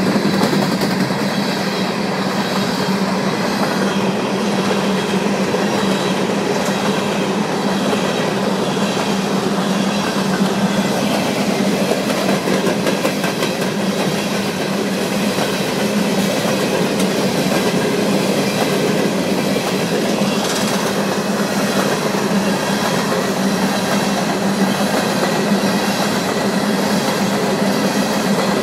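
CSX freight train's open-top hopper cars rolling steadily past close by, wheels clicking over the rail joints over a constant low hum.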